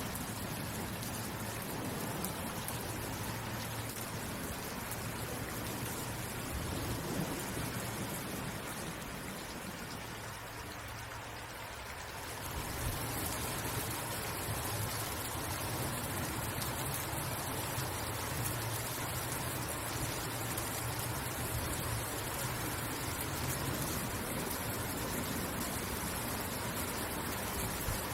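Steady rain falling, an even hiss of drops; it eases briefly about ten seconds in, then comes back a little stronger at about twelve seconds.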